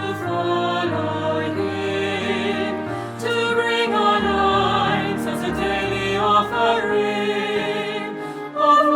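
A choir singing a slow hymn with instrumental accompaniment, holding long notes.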